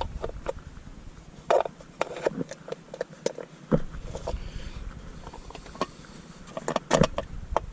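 Handling noise close to the microphone: irregular light clicks, knocks and rustles as a phone camera is fitted and settled in a chest mount. There is a quicker cluster of knocks near the end.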